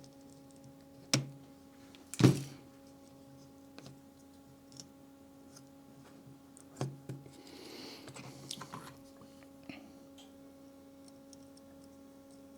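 Small objects being handled on a workbench: a few sharp clicks and knocks, the loudest about two seconds in, and a brief rustle later, over a steady electrical hum.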